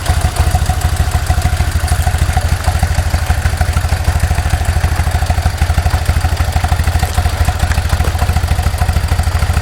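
BMW R1200C's boxer twin idling steadily through an Edhaust aftermarket exhaust, with an even, regular low pulsing and no revving.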